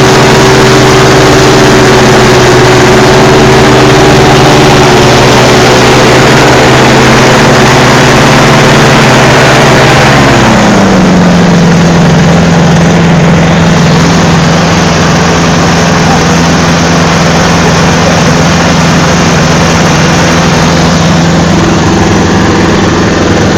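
Microlight's Rotax engine driving its propeller, running loud and steady at higher revs, then throttled back about ten seconds in, the pitch dropping and holding steady at lower revs.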